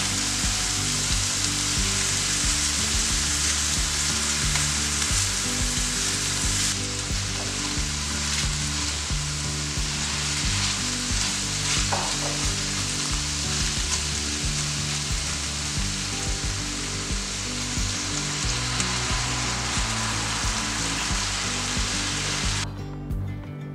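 Mushrooms frying in butter in a cast-iron skillet with a steady sizzle while they are stirred with a silicone spatula. The sizzle drops away abruptly near the end.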